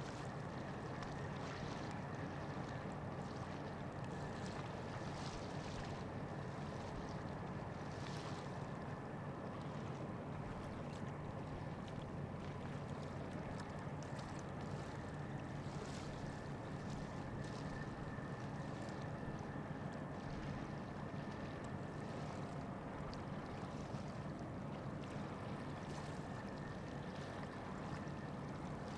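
Ship engines running with a steady low drone and a faint high whine above it, with light hiss of wind and water over the top.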